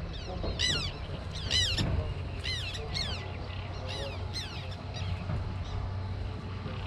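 A bird calling repeatedly: a series of short, downward-sliding calls, one or two a second, thinning out after about five seconds, over a steady low background rumble.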